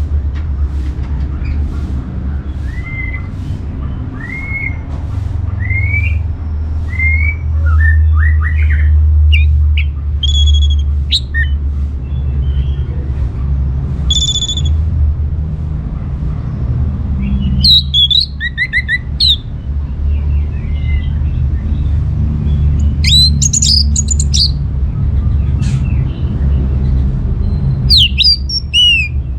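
Orange-headed thrush singing: a run of short rising whistles about one a second, then louder, more complex high warbled phrases every few seconds, over a steady low hum.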